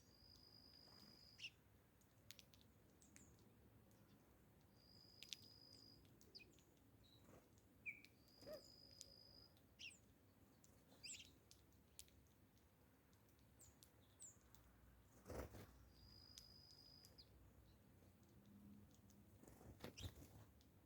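Faint wild birds calling: one bird gives a long, level, high whistle of about a second, four times, among scattered short chirps from others. A couple of soft knocks come later on.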